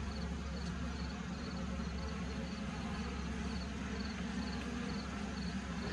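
Honey bees buzzing in a steady low hum over an opened hive, with a faint high chirp repeating about twice a second.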